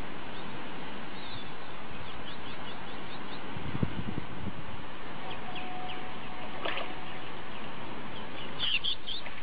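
Small birds chirping over a steady background hiss, with short high chirps here and there and a quick cluster of chirps near the end. A brief low rumble comes about four seconds in.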